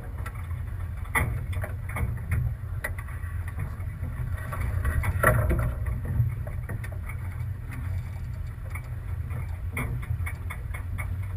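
Sailboat under way, recorded on a GoPro: a steady low rumble of wind on the camera's microphone with the wash of water and hull noise, swelling about five seconds in, and scattered sharp clicks and knocks throughout.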